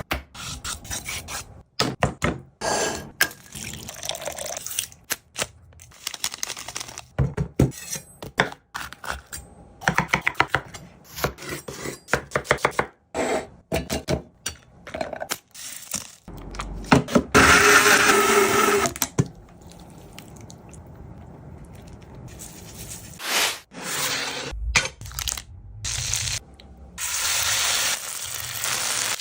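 Peri peri chicken cooking sounds, edited as a montage of short clips that cut off abruptly: knocks, taps and crackling, with a loud burst of sizzling a little over halfway through and steady sizzling near the end.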